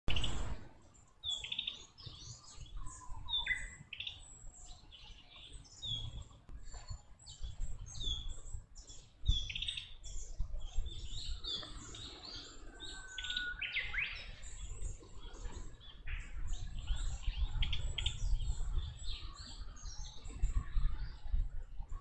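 Several wild birds chirping and calling over one another in many short, high notes, with a low rumble underneath.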